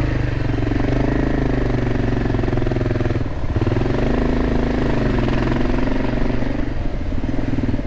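Motorcycle engine running under way, its pitch rising and falling with the throttle, with a brief drop about three seconds in.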